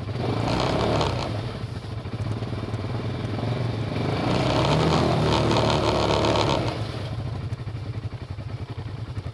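Off-road vehicle engine running with a rapid low pulse, surging louder twice, briefly near the start and again from about four to seven seconds in, before settling back.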